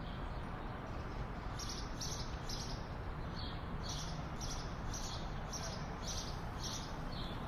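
Forest ambience: a bird gives short high chirps, repeating about twice a second, over a steady background hiss.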